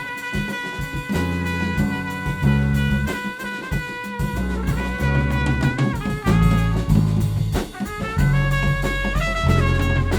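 Instrumental passage of a live band: a trumpet carries held, stepping melody notes over a bass line and drum kit.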